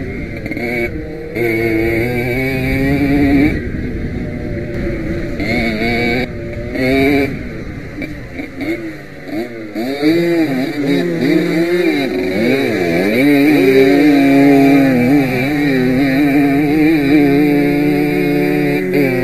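Small two-stroke Jawa 50 motorcycle engine revving hard on a dirt track, its pitch rising and falling repeatedly as the throttle is opened and closed, with rapid swings about halfway through.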